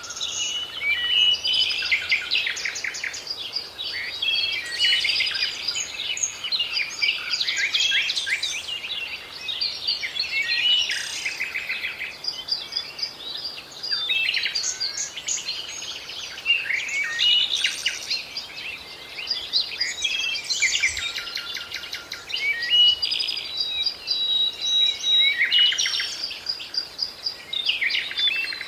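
Several birds singing and calling at once: a dense, overlapping chorus of high chirps, rapid trills and short whistles.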